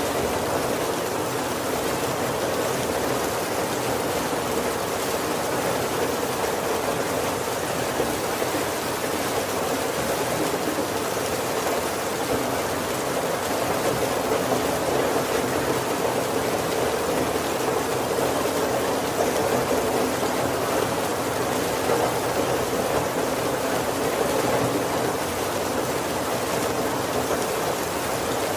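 Steady heavy rain falling on a wooden roof and windows, an even, unbroken hiss with no thunder.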